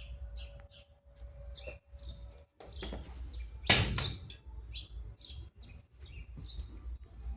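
Small birds chirping over and over in short high notes, with one loud knock about four seconds in.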